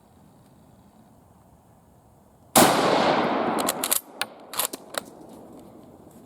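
A single shot from a Type 38 carbine, a 6.5×50mm Arisaka bolt-action, about two and a half seconds in, ringing out for over a second. It is followed by a quick series of metallic clicks as the bolt is worked to chamber the next round.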